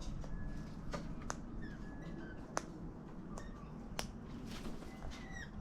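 Cockatoos cracking seeds in their beaks: sharp, irregular clicks, about one every half second to second. Faint short high bird chirps sound between them over a low wind rumble.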